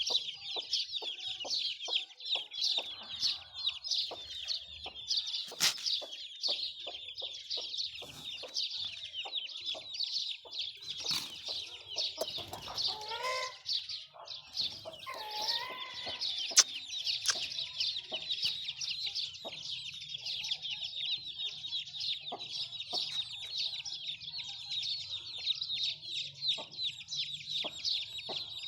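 Many chickens calling at once: a constant dense chatter of high, rapid peeping and clucking, with a few sharp clicks. A longer call rises and falls about twelve seconds in.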